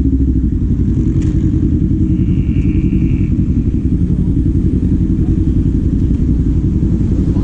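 Kawasaki Z400 parallel-twin engine and exhaust running steadily at low revs.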